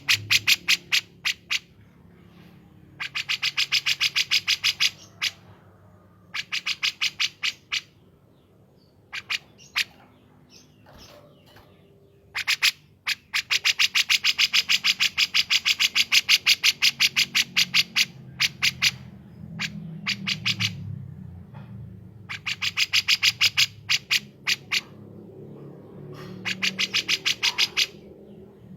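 Recorded songbird chatter: repeated bursts of rapid, evenly spaced clicking notes, about ten a second. The bursts are mostly one to two seconds long, with one long run of several seconds in the middle.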